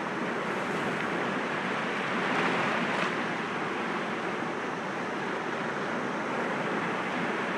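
Sea waves breaking gently against rocks, a steady wash of surf that swells a little about two and a half seconds in.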